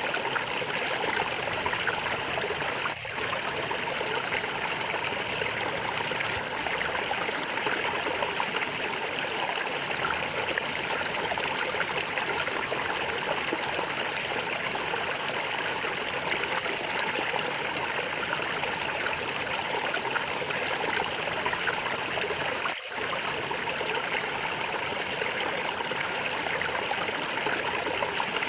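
Flowing stream water gurgling steadily, a continuous rushing burble with no breaks, dipping for an instant twice.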